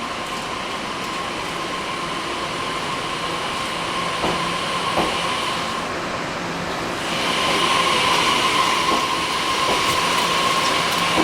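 Passenger train running at a station: a steady hum and hiss with a couple of clacks over the rail joints about four to five seconds in, growing louder about seven seconds in.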